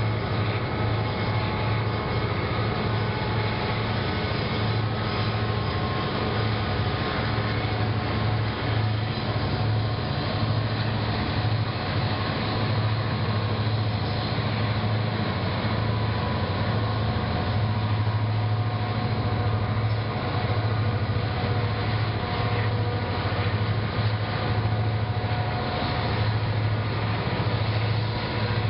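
Diesel-electric freight locomotives passing at close range, their engines running with a steady deep drone over the continuous rumble of the train.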